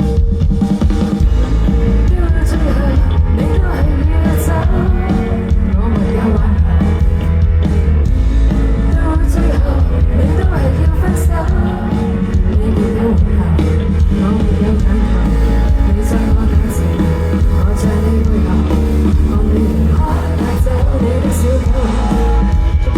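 Live band performing a song: a sung vocal over steady bass and drums.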